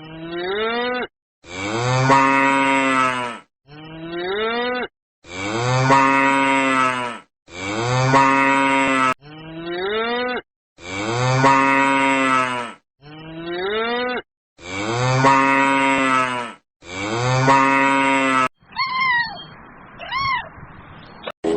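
A cow mooing over and over, about ten moos: some short with a rising pitch, others longer and held. Near the end come two short, high cries that rise and fall.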